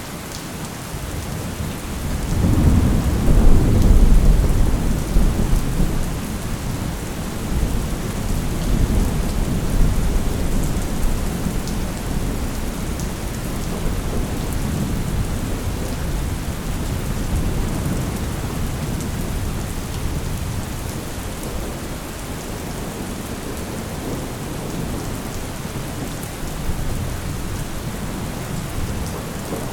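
Steady heavy rain with a long roll of thunder that swells a couple of seconds in, peaks, and slowly rumbles away.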